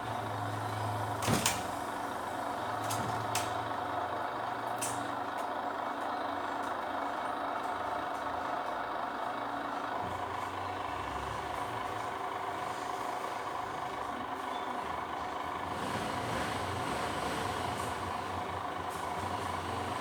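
Heavy machine's engine running steadily, with a few sharp knocks in the first five seconds.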